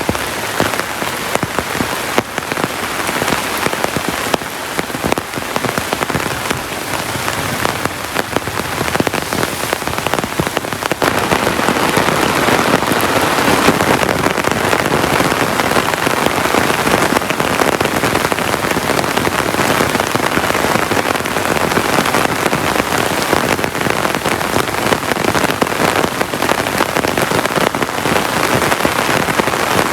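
Heavy rain falling steadily, a dense patter of drops that grows louder about eleven seconds in.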